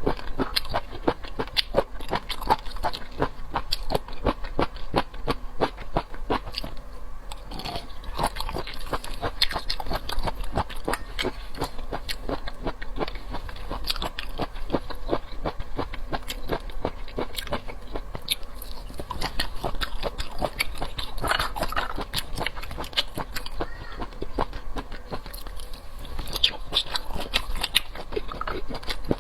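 Close-miked mouth sounds of someone chewing raw geoduck sashimi: a steady run of wet clicks, smacks and crunches.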